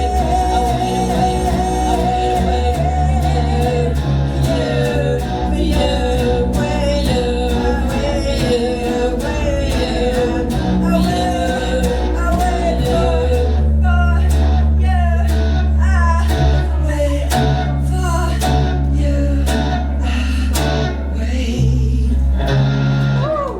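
Live band music: guitar over bass and drums with regular drum hits and a held, wavering melody line.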